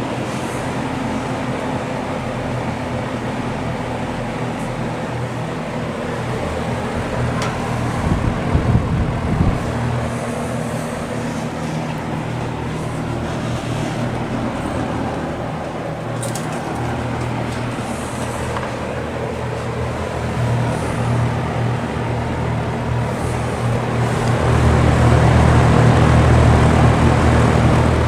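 Vintage JCPenney (Lakewood) 9711 box fan with a General Electric motor and three metal blades running on its low speed: a steady motor hum under an even rush of air. It gets louder and fuller near the end.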